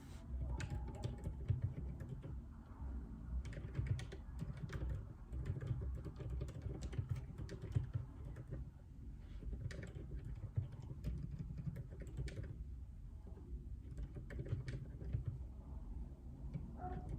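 Typing on a JJK84 mechanical keyboard with Outemu Silent Peach linear switches: a continuous, irregular run of dampened keystrokes, thinning briefly about three-quarters of the way through.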